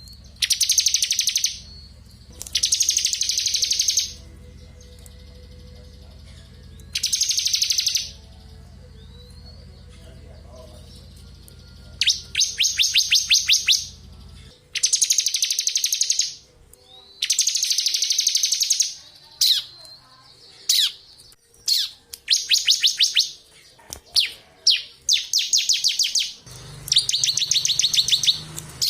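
Bar-winged prinia (ciblek) singing in repeated bursts of a very fast, high trill, each burst one to two seconds long with short pauses between. About halfway through, the bursts come closer together, mixed with a few short single notes.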